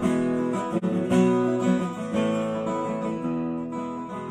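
Acoustic guitar strumming chords, an instrumental passage between sung lines of a song.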